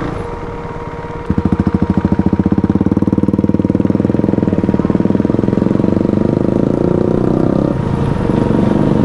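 Motorcycle engine running, joined about a second in by a louder, evenly pulsing exhaust note that holds steady and then cuts off suddenly.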